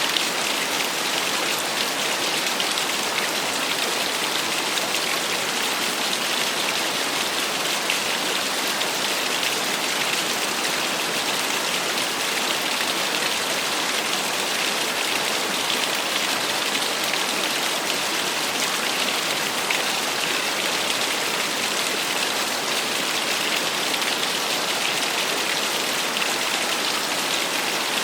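Small waterfall splashing steadily, a continuous even rush of falling water with a bright, hissing edge and no changes.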